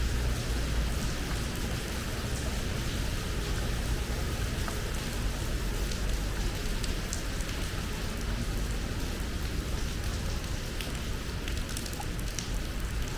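Heavy rain pouring steadily, with scattered sharp drop hits and a low rumble underneath.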